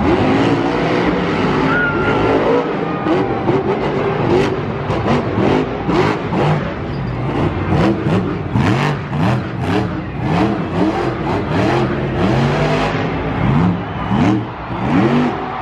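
Monster truck engines revving hard again and again, each rev a quick rising sweep in pitch.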